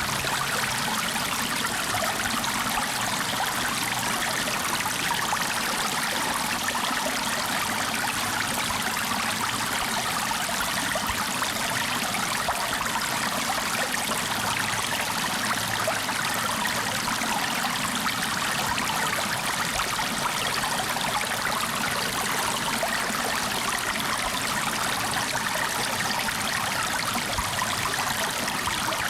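Flowing water, a stream running steadily with a trickling, splashing hiss and no breaks.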